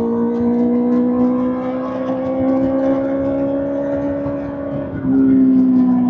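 Kawasaki ZX-6R inline-four through an SC-Project SC-1R exhaust, held at high revs with the pitch climbing slowly. About five seconds in it jumps suddenly louder, then its pitch starts to ease back.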